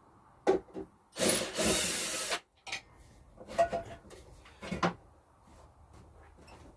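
Wooden objects being handled: a couple of knocks, then a loud scraping rub lasting about a second, then a few more knocks.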